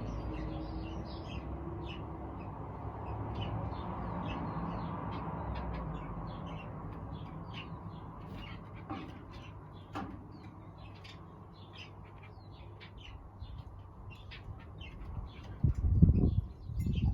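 Aviary birds chirping and tweeting in quick short calls, with a low rumble that fades over the first seconds. Near the end, a couple of loud low thumps.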